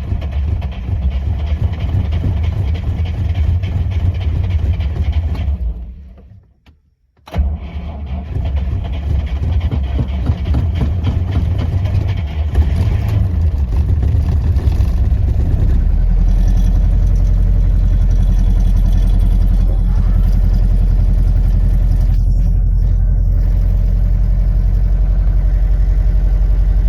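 GAZ 21 Volga's four-cylinder petrol engine starting cold after years of sitting, on fuel poured into the intake: it fires and runs, stops about six seconds in, then is started again and catches. It runs unevenly at first, then settles into a steady idle about sixteen seconds in.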